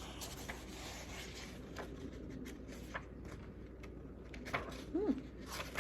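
Faint rustling and light clicks of paper being handled, as the pages of a picture book are turned, with a short soft hum of voice near the end.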